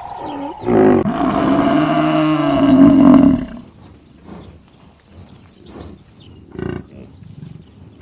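A large animal calling: a short call, then a loud, long pitched call of about two and a half seconds, then quiet with a brief call near the end.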